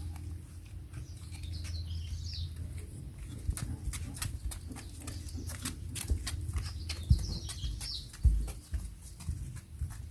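Birds chirping now and then in the background over a steady low rumble, with a run of light, quick clicks and taps starting about three seconds in and a couple of louder knocks near the end.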